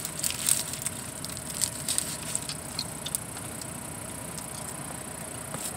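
Someone chewing a bite of burrito, with the paper wrapper crinkling in the hands: scattered small clicks and crackles that thin out after about three seconds.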